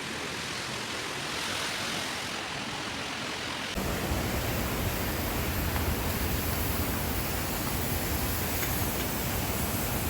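River water rushing over stones: a steady hiss, which about four seconds in turns abruptly louder and deeper.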